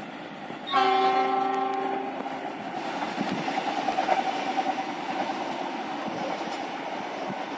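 A diesel passenger train sounds its horn in one loud multi-tone blast of about a second and a half, starting just under a second in. The train then keeps running along the track with a steady rumble of wheels on rail.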